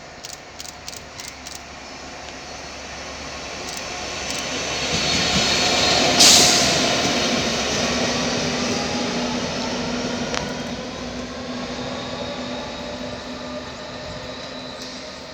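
Class 66 diesel locomotive's two-stroke V12 engine running as it approaches and passes without a train, growing louder for about six seconds, a short sharp burst of noise as it goes by, then a steady engine note slowly fading and falling in pitch as it draws away. A few light clicks in the first second or so.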